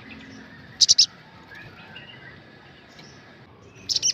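Sunbird (sogok ontong / sriganti) calling: a quick burst of three sharp, very high chirps about a second in and another just like it near the end, with softer twittering between.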